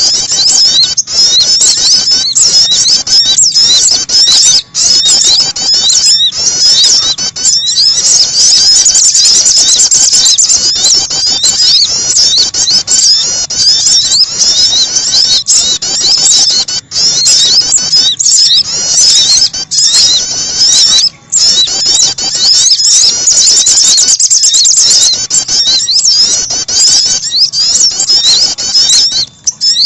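Dense, rapid, high-pitched chirping and twittering of small birds, played as a bird-trapping lure recording, going on almost without a break.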